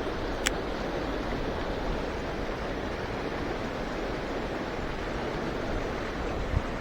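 Steady rush of a mountain stream's flowing water. A single sharp click sounds about half a second in, and a low thump near the end.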